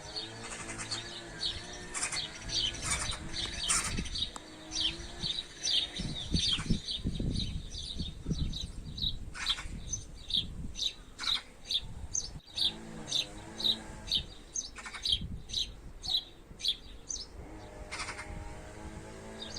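A bird chirping over and over in short high notes, about two a second.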